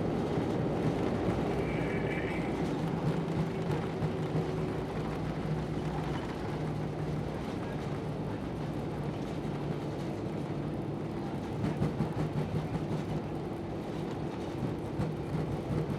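Cabin noise inside a Lufthansa Airbus A319-112 near the front of the cabin: a steady low rumble with a constant hum running through it.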